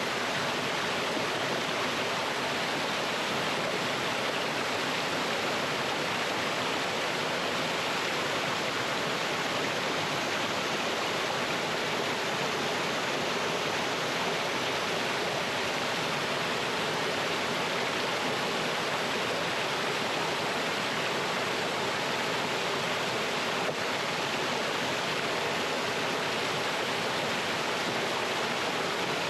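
Mountain stream pouring over rocks in a small waterfall: a steady, even rush of water.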